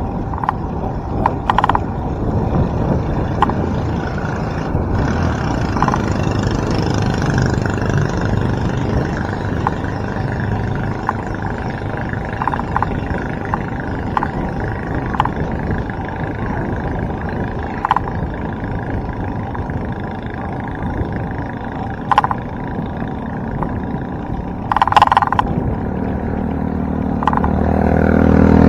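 Steady wind and road rush on the microphone of a bicycle climbing a road, with scattered short clicks and rattles. Near the end a motor vehicle's engine grows louder as it approaches.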